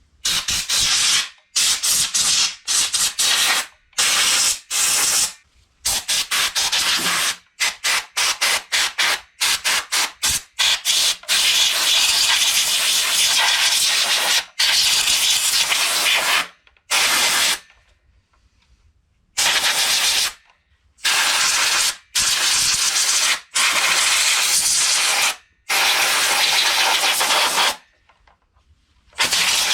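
Pressurised spray hissing in repeated bursts: a run of quick short puffs, then longer blasts of one to three seconds each, with short pauses between.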